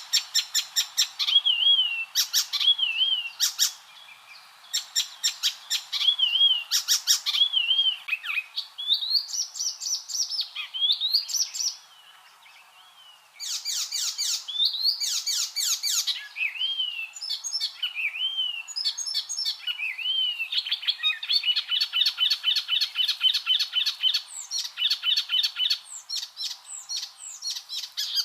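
Icterine warbler singing a fast, varied song of repeated sharp notes, clicks and slurred whistles. It breaks off briefly about halfway and ends in a rapid rattling trill.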